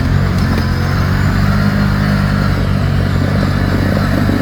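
Off-road ATV engine running at steady revs, holding a constant pitch.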